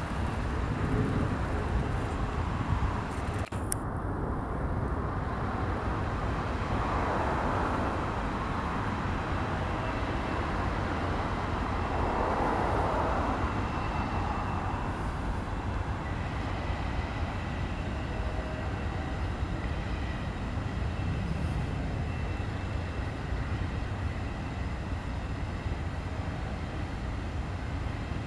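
Union Pacific double-stack container freight train rolling past at a distance, its cars making a steady rolling rumble on the rails.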